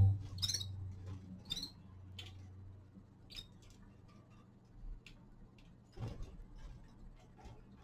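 Caged finches feeding: scattered light clicks and taps of seeds being cracked and of small birds moving about, with a few short high chirps and a louder knock about six seconds in.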